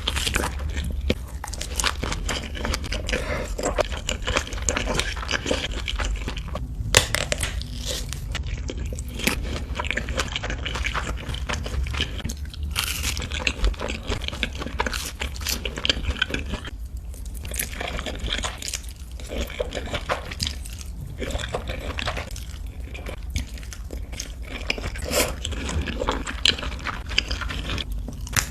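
Close-miked chewing and eating of spicy carbonara noodles: a continuous run of irregular wet mouth clicks and smacks, over a steady low hum.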